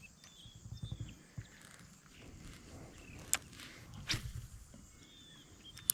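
Quiet outdoor background with faint rustling and a few short, sharp clicks spread through it.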